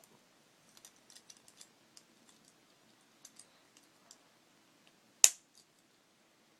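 Small plastic Lego pieces being handled: a run of light clicks and taps in the first couple of seconds, a few more after, and one much louder sharp click a little after five seconds in.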